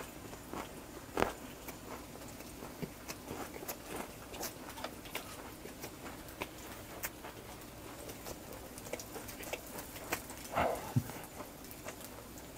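Close-miked chewing of a mouthful of grilled pork belly wrapped with raw onion and ssamjang: soft wet chewing with scattered small clicks and crunches.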